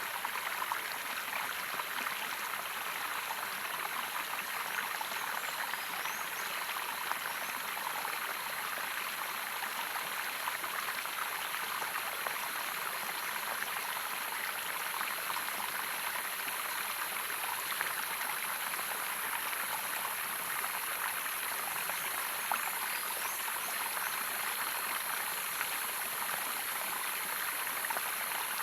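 Running water splashing and gurgling in a steady, unbroken rush, with a steady high-pitched hiss above it.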